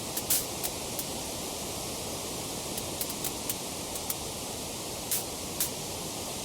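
Wood fire crackling: a steady hiss of burning with scattered sharp pops and snaps, the strongest about a third of a second in and again about five seconds in.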